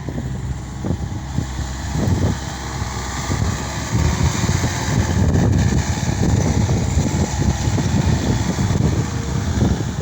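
Case SR200 skid steer loader's diesel engine running under work, getting a little louder about four seconds in.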